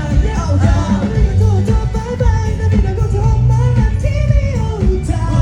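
A J-pop song played loudly through a concert sound system, with singing over a strong, steady bass.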